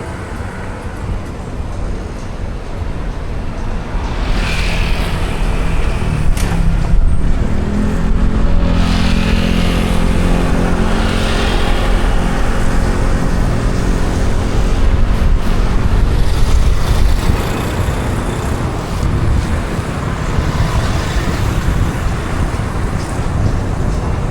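Street traffic on a rain-wet road: engines running under a steady rumble of tyre and road noise. Hissing swells come and go, and a passing vehicle's engine hum stands out for several seconds around the middle.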